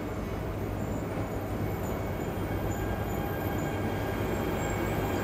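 E926 East-i Shinkansen inspection train rolling slowly into a station platform, its running noise a steady rumble that grows gradually louder as it nears.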